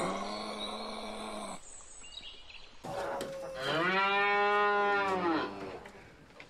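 A cow mooing: one long, loud call from about halfway in, its pitch rising and then falling. A shorter, steady animal call comes before it at the start.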